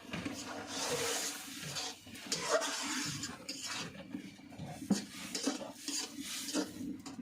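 A utensil stirring and scraping in a cooking pot, in irregular strokes.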